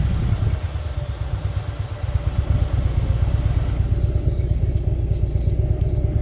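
Motorcycle engine running at low speed, with a rapid, even beat of exhaust pulses; it eases off a little about a second in, then holds steady.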